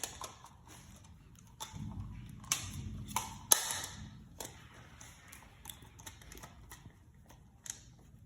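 Irregular small clicks and taps of wires and a screwdriver being worked at the terminals of a water heater switch box, with one sharper click about three and a half seconds in.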